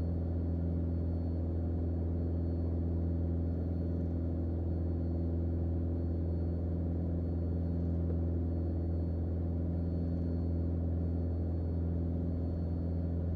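Steady drone of a Mooney M20J's four-cylinder Lycoming engine and propeller at climb power, heard inside the cockpit: an even, low hum with steady overtones that does not change.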